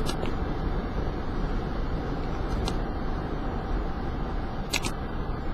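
Steady road noise inside a moving car: tyres and engine making an even rumble, with a few brief clicks about three seconds in and again near the end.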